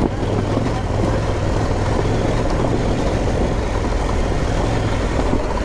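Motorcycle engine running steadily at an even pitch, under a steady rushing noise.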